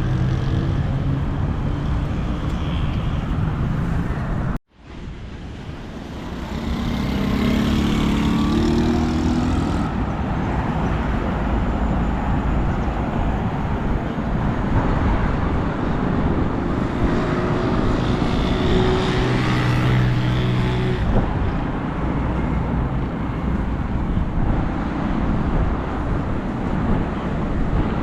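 Steady road traffic on a busy city street, with car engines passing. The sound cuts out abruptly about four and a half seconds in, then fades back in.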